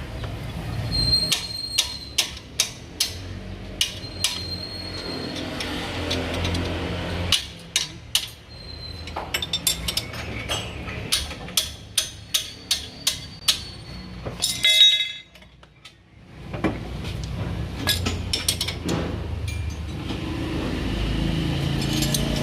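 Metal hand tools knocking and clinking against metal parts under a car: a run of sharp, irregular taps, some ringing briefly, with a short rattling burst about fifteen seconds in and a brief lull after it.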